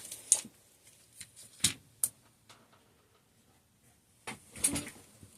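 A few sharp clicks and knocks of small metal parts and tools being handled on a workbench, with a short quiet stretch between them and a quick cluster of clicks near the end.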